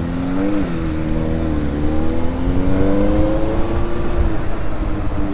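Benelli TNT 600i's inline-four engine pulling under acceleration, its pitch climbing steadily, then dropping slightly a little over four seconds in, with low wind and road rumble underneath.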